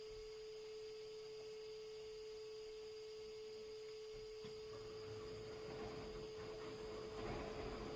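A steady, even hum-like tone on one pitch, with a faint rushing noise growing underneath from about halfway through.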